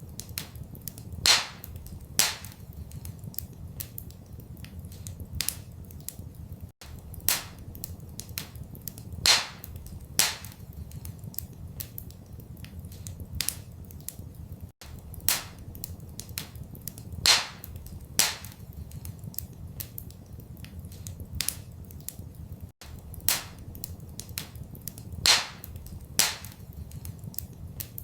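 Wood fire crackling in a fireplace: sharp, irregular pops and snaps over a low, steady rumble. The same pattern of pops repeats every eight seconds, as a loop.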